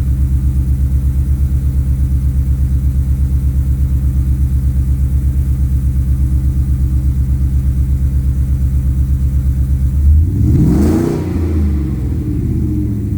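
Ford Coyote 5.0 V8 exhaust, through long-tube headers, a Magnaflow muffler and two 3-inch Vibrant resonators, idling with an even, lumpy pulse. About ten seconds in, the throttle is blipped and the revs rise and fall back toward idle.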